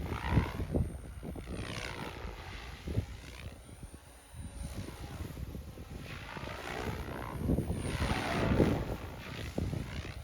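OMPHobby M4 Max electric RC helicopter in flight, its rotor noise swelling and fading several times as it passes back and forth. Wind buffets the microphone in gusts.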